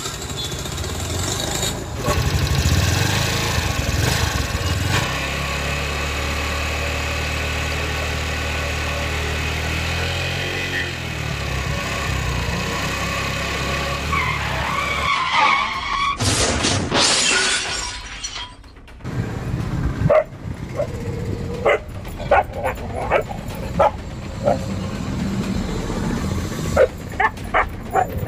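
A scooter's small engine runs steadily, then a crash with a sharp shattering burst about sixteen seconds in. After it a dog barks again and again.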